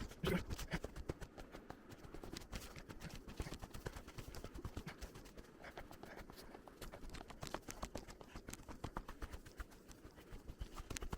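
Footsteps of a hiker walking a trail, heard as a faint run of irregular clicks and scuffs.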